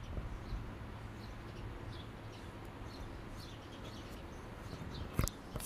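Faint bird chirps scattered over steady low outdoor background noise, with one sharp click a little past five seconds in.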